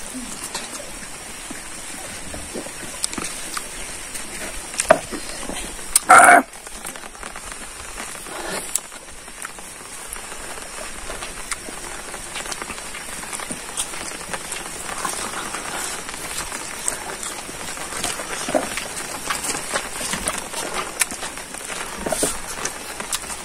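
Close-miked eating sounds: a man chewing mouthfuls of rice and pork eaten by hand, with wet smacking and many small irregular clicks. One louder short sound comes about six seconds in.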